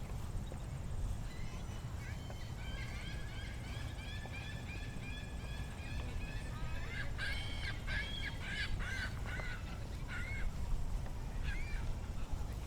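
Geese calling: a fast run of short repeated calls, then several louder honks about seven seconds in and a couple more near the end, over a steady low rumble.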